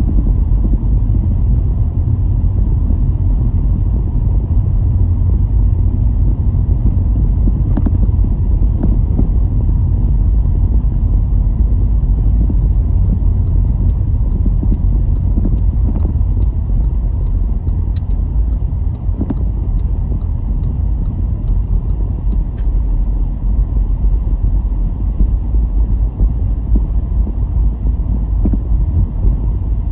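Car driving at a steady pace: a continuous low rumble of road and engine noise, with a few faint ticks scattered through it.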